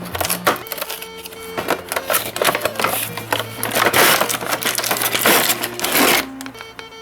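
Packaging being handled, rustling and crinkling with many small clicks, loudest in the second half, over background music with steady held notes.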